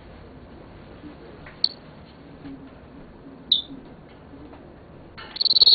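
Senegal parrot giving two short, sharp, high chirps a couple of seconds apart, then a louder, longer rasping squawk near the end.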